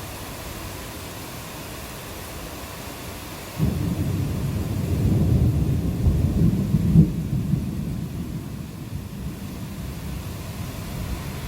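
A clap of thunder breaks in suddenly about a third of the way in and rolls as a long deep rumble that swells, peaks and slowly fades, over the steady hiss of falling rain.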